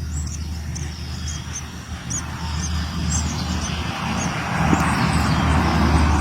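A bird's high, thin chirp repeated about twice a second over a steady low hum. A rushing noise builds up in the second half.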